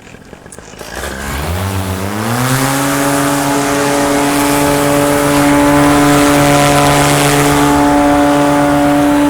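Paramotor engine and propeller throttling up about a second in, the pitch climbing for about a second, then running steadily at high power with a rush of air.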